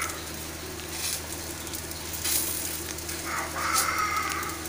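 Dosa sizzling on a hot iron tawa while a spoon and spatula scrape across it, spreading the potato masala. From about three seconds in, a high held tone sounds over the sizzle.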